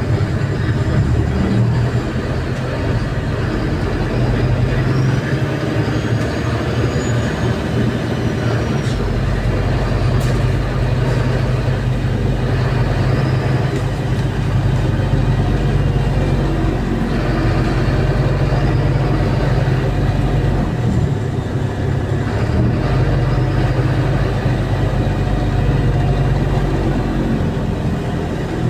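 Inside the cabin of a MAZ-203 city bus on the move: a steady low engine drone with road and cabin noise, and a single sharp click about ten seconds in.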